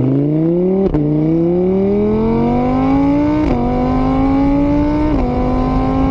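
Engine accelerating through the gears: the pitch climbs steadily and drops sharply at each of three gear changes, then holds nearly steady near the end.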